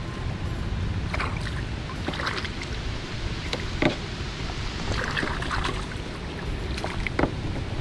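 Kayak paddle strokes splashing in the water, irregular splashes every second or so, over a low rumble of wind on the microphone.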